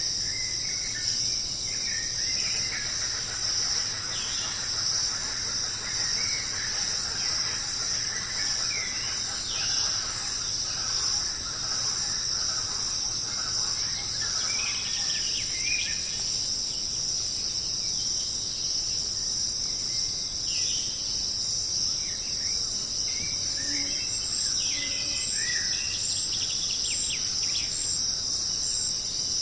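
Jungle ambience: a continuous high-pitched insect drone, with short bird chirps and calls scattered over it.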